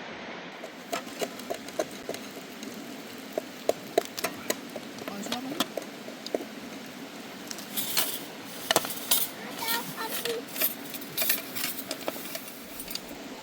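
Dishes and metal utensils clinking and tapping in a scatter of short knocks, some with a brief ring, busiest in the second half, over a steady background hiss.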